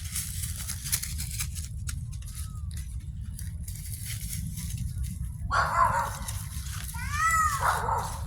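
A domestic animal calling: a short harsh call about five and a half seconds in, then a longer call near the end whose pitch rises and falls. A steady low rumble runs underneath.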